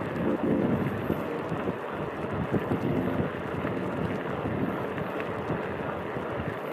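Wind buffeting the microphone of a camera carried on a moving bicycle: a steady, gusty rush of noise with no clear tone.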